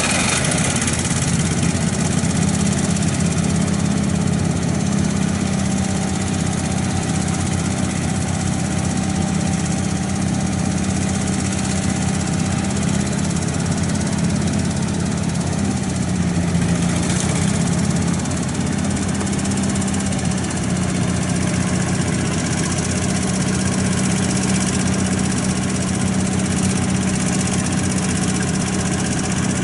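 1997 Ford utility boom truck's engine idling steadily.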